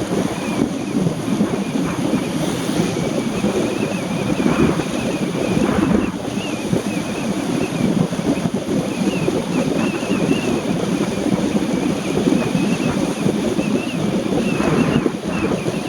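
Steady rushing noise of a car driving in heavy rain, tyres hissing on the wet road and rain on the car, with a faint wavering high-pitched tone running through it.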